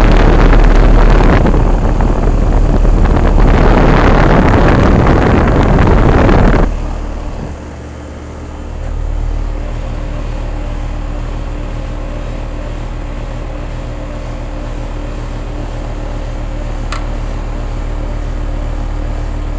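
Carrier central air-conditioner condensing unit running. For the first several seconds a loud rushing of air buffets the microphone, then it cuts off suddenly to the unit's steady compressor and fan hum, with one faint tick near the end.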